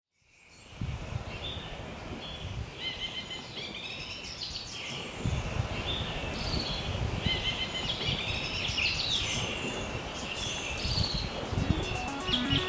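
Birds chirping and calling over and over above a steady low rumble, fading in from silence at the start. Electronic music comes in near the end.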